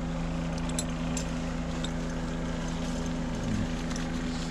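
Steady engine drone with a constant low hum, unchanging, with a few faint light clicks over it.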